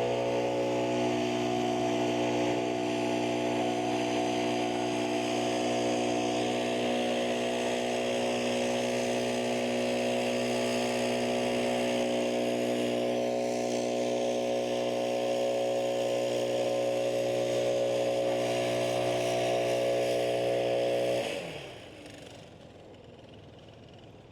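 Engine running steadily at high speed, then winding down and stopping about 21 seconds in.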